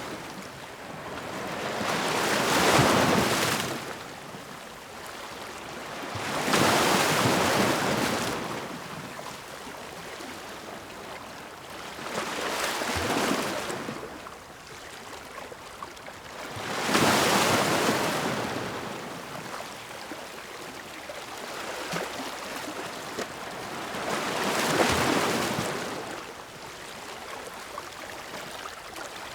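Ocean waves breaking and washing in on the shore, one surge every four to six seconds, each swelling into a hiss and falling back between breaks.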